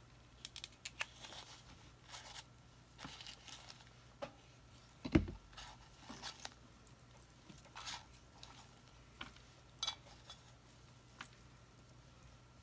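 Scattered light rustles and clicks of craft materials being handled, with one louder low thump about five seconds in.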